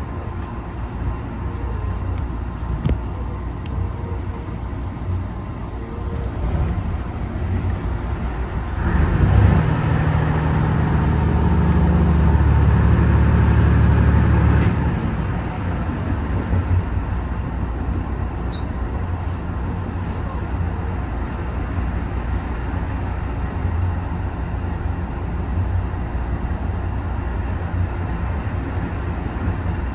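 Train running along the track, a steady rumble heard from the cab, growing louder with a low steady hum for about six seconds in the middle before settling back.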